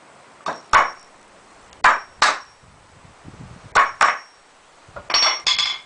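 Hammer striking nails into pallet wood, about eight sharp blows, mostly in pairs, some with a brief metallic ring.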